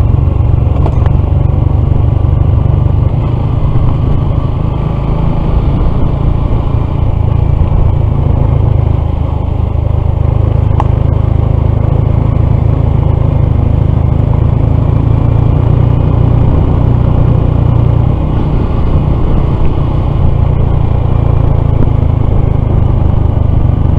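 Honda CT125's single-cylinder engine running steadily while the motorcycle is ridden along a road, under a heavy low rumble. The engine is damaged; the owner later traced it to a faulty piston and a misaligned valve.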